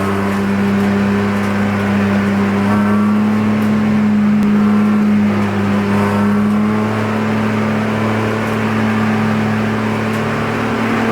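Spec E46 BMW race car's straight-six engine pulling hard under load, heard from inside the car. Its pitch climbs slowly and steadily, then dips briefly near the end.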